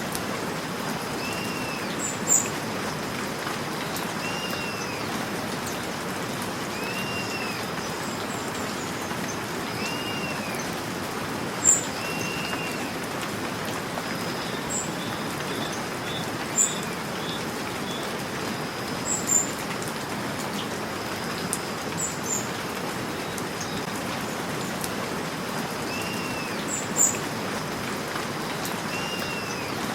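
Steady rain with birds calling over it. A short arching call repeats every second or two for much of the time, and sharp high chirps stand out several times as the loudest moments. A faint steady high tone runs underneath.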